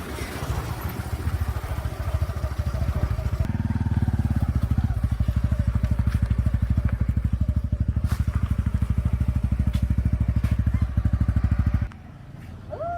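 Motorbike engine running steadily with a rapid low pulse while riding, cutting off abruptly about twelve seconds in. A short high squeak follows near the end.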